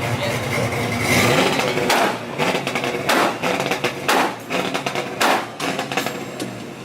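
A vehicle engine revving in a series of short, sharp bursts, about one a second.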